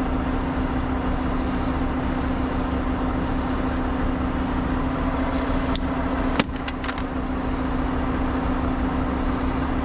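A vehicle engine running steadily with an even hum, with a few sharp clicks and a knock about six seconds in.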